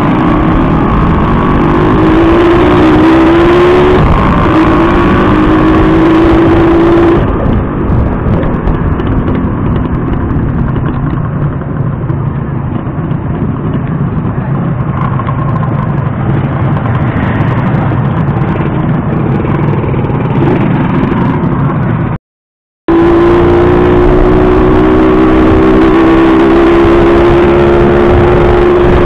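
Motorcycle engine running hard and accelerating, its pitch climbing, under heavy rushing noise. The sound cuts out for a moment about three-quarters through, then the engine is heard again with its pitch rising.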